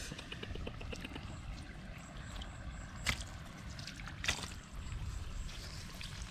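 Flowing water running steadily, with two short sharp sounds about three and four seconds in.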